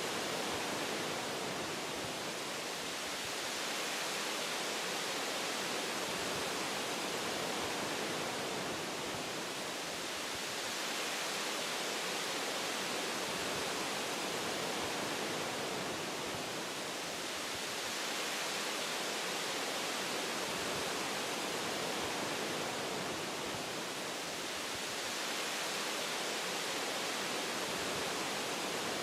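Wind through forest tree branches, a steady rushing hiss like white noise that swells and eases gently every six seconds or so.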